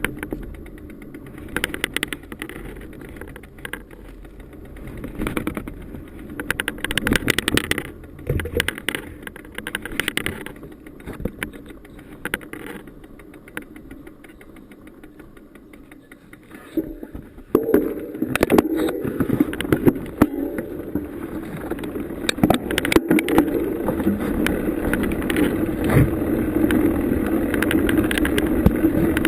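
Bicycle riding over a rough trail: irregular rattles and knocks as it goes over bumps, with a steady rolling and wind rush that comes in louder about two-thirds of the way through and keeps building.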